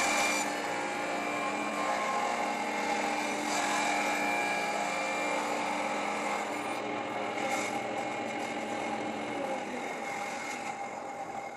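Electric power saw running steadily while cutting a board to width, its motor holding several steady tones.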